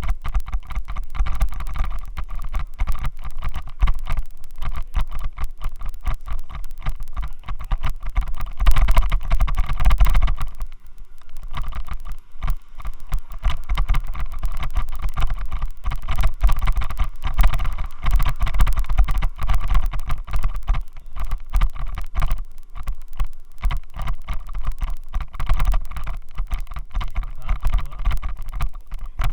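Continuous rattling vibration noise picked up by a Xiaomi Yi action camera in a loose helmet mount: the faulty mount shakes the camera. It eases for about a second around eleven seconds in, then comes back.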